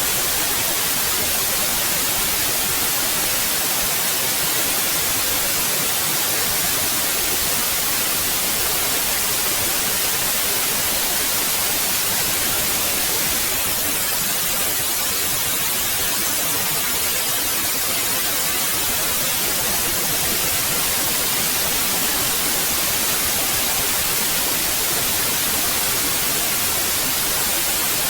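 Steady synthetic white noise: an even, unchanging hiss, brightest in the high range.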